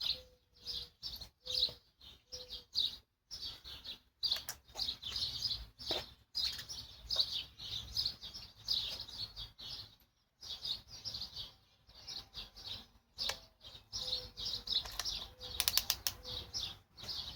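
Birds chirping repeatedly, with a low cooing call of a few notes twice, once at the start and again past the middle. Scattered clicks and knocks.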